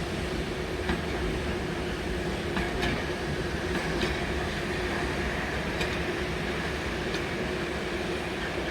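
Model train running along a layout's track: a steady motor hum with scattered light clicks from the wheels over the rails, over the murmur of an exhibition hall.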